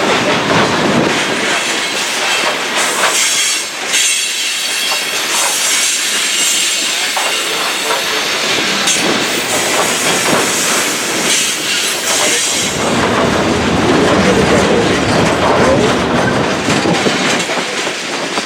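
BNSF freight train rolling past, its cars' wheels clicking over the rail joints with some wheel squeal. The sound turns deeper and heavier about two-thirds of the way through.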